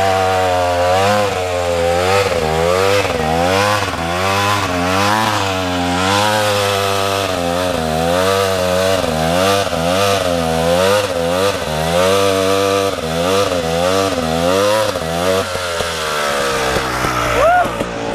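KTM 300 two-stroke dirt bike engine, loud, revving up and down over and over about once a second, then dropping back near the end. A short rising squeal comes just before the end.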